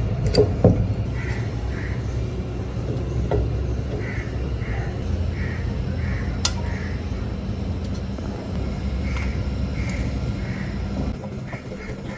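A bird calling over and over in short runs, two calls, then six, then three, about half a second apart, over a steady low rumble that fades away near the end. A single sharp click about halfway through.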